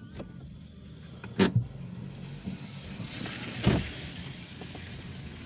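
Car driving, heard from inside: a steady low engine and road rumble with a hiss of tyres on a wet road. Two sharp thumps come about a second and a half in and again near four seconds.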